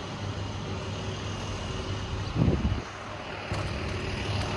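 A vehicle engine running steadily at idle, heard as a low, even hum over outdoor noise. A short, louder low rumble comes about two and a half seconds in.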